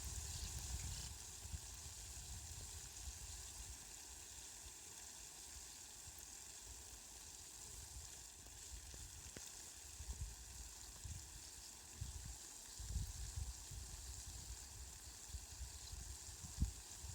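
Steady hiss of falling rain, with irregular low rumbles near the start and again in the second half.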